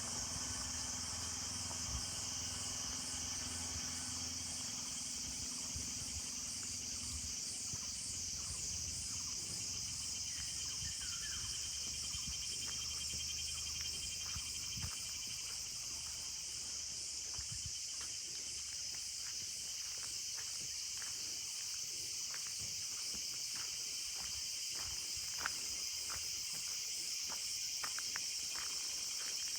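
A steady chorus of insects chirping, high-pitched and pulsing in an even rhythm. In the second half, a walker's footsteps on the road add a run of soft clicks.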